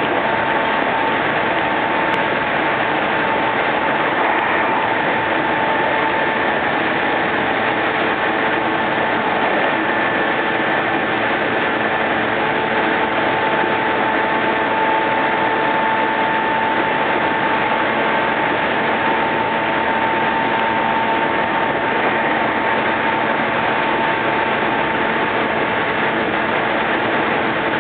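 Meitetsu 5300 series electric train running at speed, heard from inside the car: a steady rolling and motor noise with a steady whine that swells and fades. The uploader finds this unit's running sound similar to the Meitetsu Panorama Car's.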